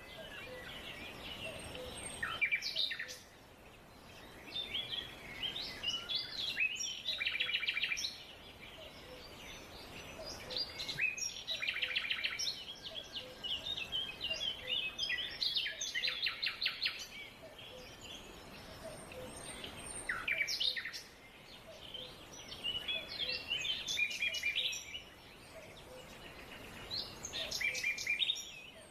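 Forest birds singing: bursts of chirping phrases every few seconds, several of them running into fast trills, over a faint steady background hiss.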